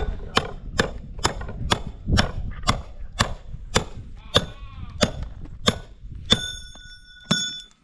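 Repeated sharp blows, about two a second, with a clear metallic ring after the blow about six seconds in. Sheep or goats bleat over the first few seconds.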